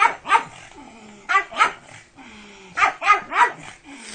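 Pug barking about seven times in quick clusters of two or three, with lower sliding growl-like sounds between the clusters.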